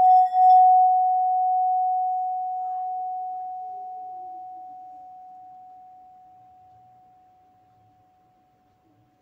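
One clear ringing tone from a resonant vessel played by rubbing its rim. It throbs briefly at the start, then fades away slowly over about eight seconds.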